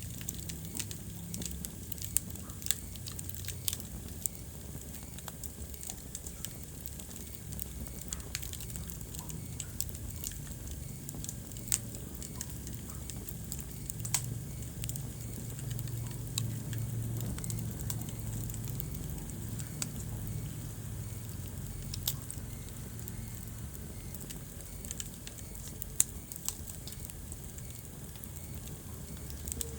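Wood fire burning in a fireplace: a low steady rumble of the flames with irregular crackles and sharp pops from the burning logs, a few louder snaps among them.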